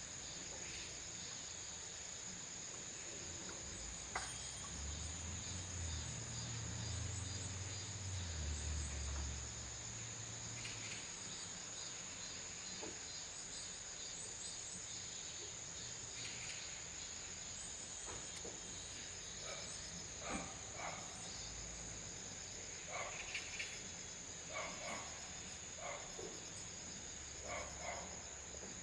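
Insects in the woods trilling in one continuous high-pitched tone, over a faint steady hiss, with scattered short chirps and ticks that come more often in the second half. A low rumble sounds for a few seconds early on.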